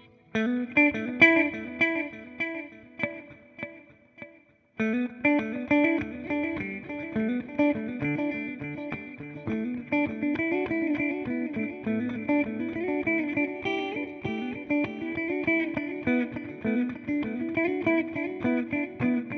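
Electric guitar, a Fender Jazzmaster, played through a TC Electronic Flashback delay pedal. A phrase of picked notes fades away over about four seconds, then a busier run of picked notes and their delay repeats carries on.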